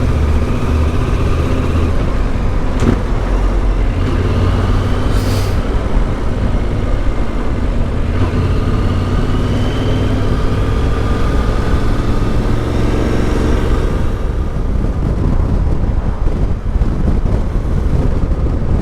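Yamaha Ténéré 700's parallel-twin engine through an Akrapovic exhaust, ridden on the road with its pitch climbing as it accelerates, under heavy wind rustle on the helmet microphone.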